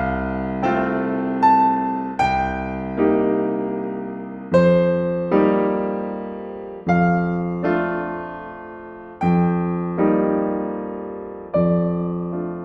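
Slow, gentle solo piano music: notes and chords struck about once a second, each left to ring and fade before the next.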